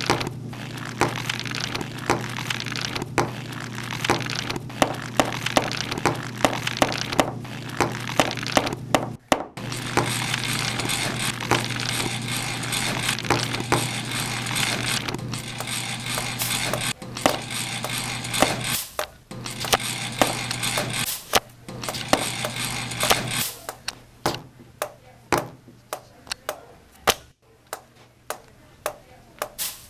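Many sharp, irregular taps and clicks over a steady low hum, packed closely with a noisy haze through most of the stretch, then thinning to separate taps near the end.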